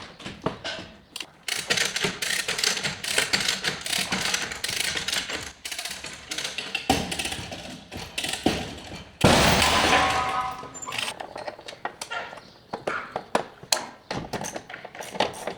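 Body-shop work on a damaged car: irregular knocks, taps and clatters of tools against metal panels, with one louder, harsher burst lasting about a second near the middle.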